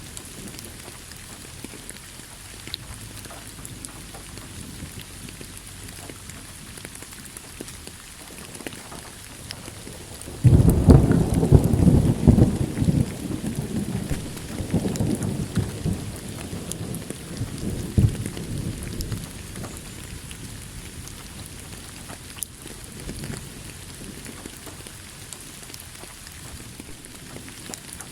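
Steady rain falling, with a sudden loud crack and rumble of thunder about a third of the way in that rolls on and fades over several seconds, and a second, sharper crack a little later.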